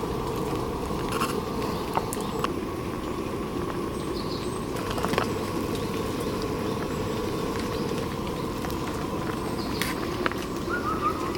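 Steady rain falling on the campsite, a continuous hiss with scattered sharp drip taps, and a few short chirps near the end.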